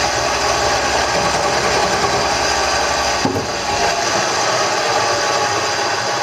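Wood lathe running while a turning tool cuts a spinning wooden handle blank, a steady whir with scraping from the cut. A short knock about three seconds in.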